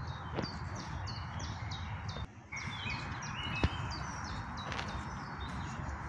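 A small songbird chirping a fast series of short, high, repeated notes, about three or four a second, over a steady background hiss. The sound drops out briefly about two seconds in, and there is one sharp click a little after that.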